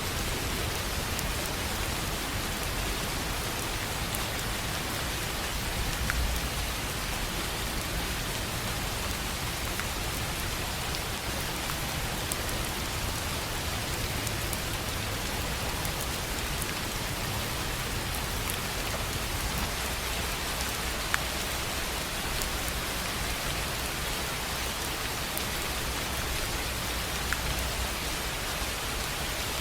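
Steady rain falling on a tin roof: an even hiss of many drops, with an occasional sharper single drop tick standing out.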